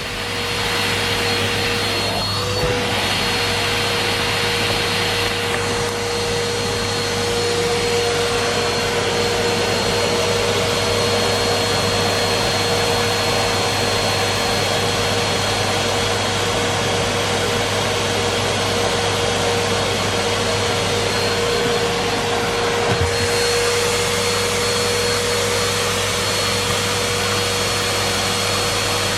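Numatic Henry Pet cylinder vacuum cleaner running steadily: a constant motor tone over a rush of suction air, with a light knock near the end.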